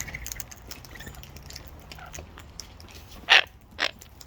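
Two short, harsh parrot squawks about three seconds in, half a second apart, over faint scattered clicks.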